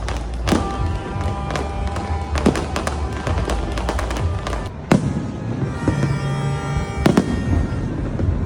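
Aerial fireworks bursting: sharp, separate bangs every couple of seconds, the loudest about five seconds in and a quick double bang near seven seconds, over a low rumble, with music playing underneath.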